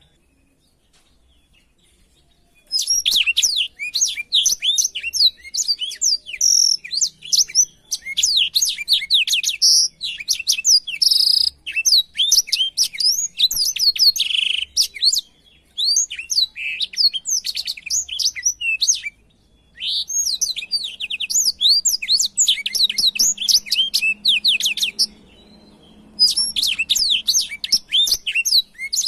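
Black-throated canary (blackthroat) singing long runs of rapid, high twittering notes. The song starts about three seconds in and has a few short pauses.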